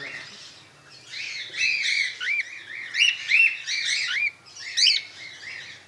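Cockatiels chirping: a quick series of short, rising-and-falling calls, starting a little over a second in and repeating about twice a second.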